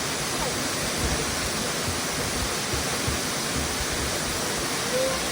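A large waterfall rushing steadily, a dense even roar of falling water.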